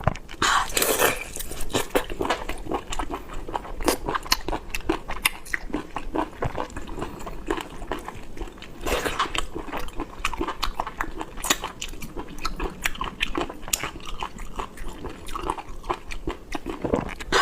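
Close-up biting and chewing of cooked squid heads, a dense run of short irregular clicks and smacks from the mouth.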